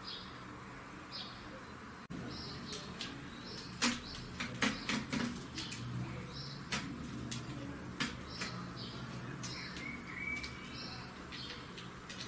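European greenfinch calling with short high chirps about once a second, with a longer held note near the ten-second mark. A run of sharp clicks and taps starts about four seconds in.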